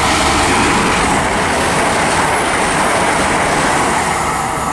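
TransPennine Express Class 802 train passing through a station at speed without stopping: a loud, steady rushing noise of the train going by.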